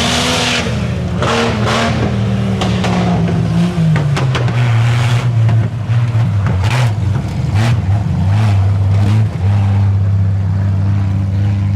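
Tuff truck engine revving hard on a dirt obstacle course, its pitch rising and falling with the throttle. Repeated knocks and clatters mark the truck hitting bumps, and the engine settles onto a steadier tone near the end.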